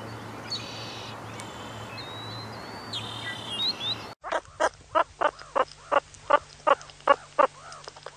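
Two animal recordings in a row. First comes a hissy stretch with a few faint, high whistled glides, like distant bird calls. About four seconds in, a different recording starts: short, sharp calls repeated evenly, about three a second.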